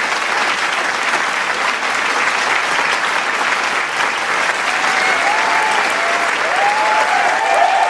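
Large crowd applauding steadily in a dense wash of clapping, with cheering voices and shouts joining in over the second half.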